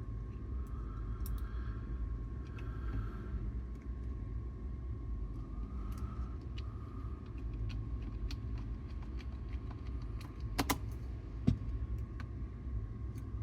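Light clicks and taps of small metal parts and a screwdriver being handled on a cassette deck's tape transport mechanism, over a steady low hum, with two sharper clicks near the end.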